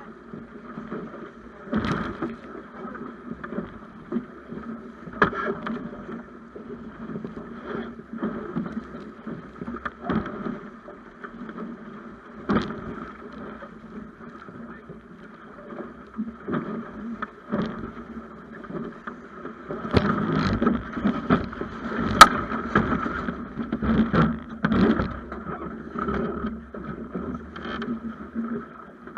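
Snipe sailing dinghy under way: a steady rush and hum of water along the hull, broken by scattered knocks and clicks from the hull and fittings, with one sharp crack about three quarters of the way through.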